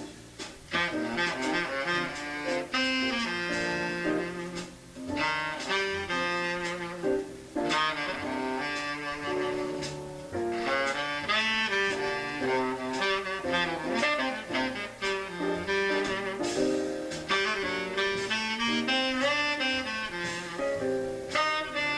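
Small-group jazz recording: a tenor saxophone plays quick, running melodic lines over double bass, with brief breaths between phrases about five and ten seconds in.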